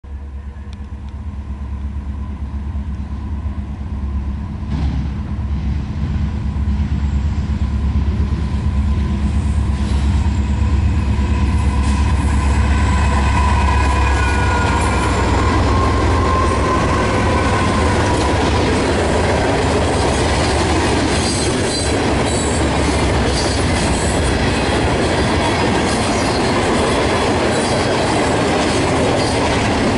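Diesel locomotives of a CN freight train approaching and passing, their engines a heavy low rumble that grows louder over the first ten seconds or so. After about fourteen seconds the locomotive sound gives way to the rolling noise of a long string of ballast hopper cars, with steady wheel-on-rail clatter.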